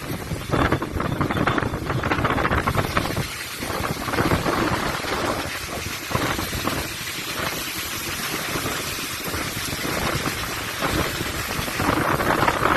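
Strong storm wind gusting against the microphone with heavy rain, the noise surging and easing in uneven waves every second or two, loudest near the start and again at the end.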